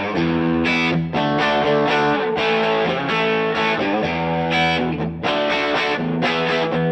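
Electric guitar played through the DVII guitar amplifier: sustained chords with some distortion, changing every second or so, with short breaks about a second in and just after five seconds.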